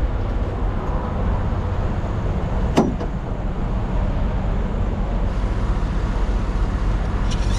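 Semi truck's diesel engine idling with a steady low rumble, with a single sharp click about three seconds in.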